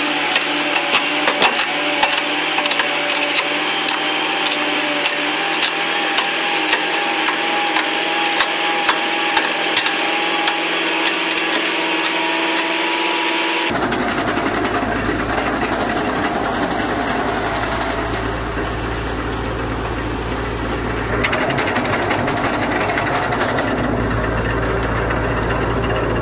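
Wood chipper running, with rapid sharp clicks and cracks over a steady machine whine for about the first half. About halfway through the sound changes abruptly to a deeper, rumbling engine drone.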